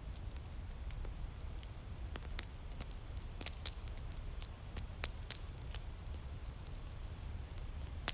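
Wood fire crackling, irregular sharp pops and snaps, a few louder ones around the middle, over a steady low rumble of winter wind.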